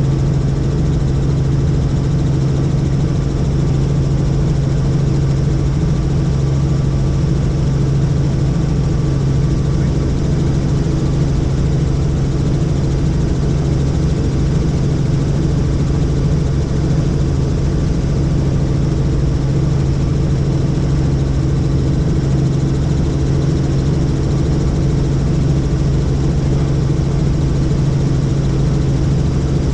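Helicopter running steadily, a loud, even drone of rotor and engine with a strong low hum that does not change.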